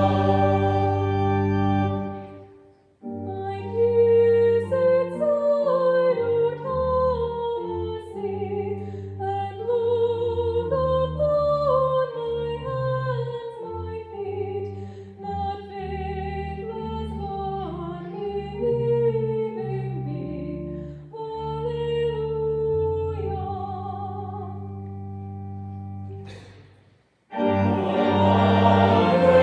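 A congregation and organ sing the end of a hymn stanza, which stops about two seconds in. A quieter organ interlude of held bass notes and moving upper lines follows. Near the end the full congregational singing comes back in for the next stanza.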